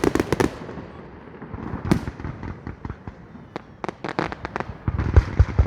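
Fireworks salute: rapid crackling bursts at the start and again past the middle, a sharp bang about two seconds in, and deep booms of bursting shells near the end.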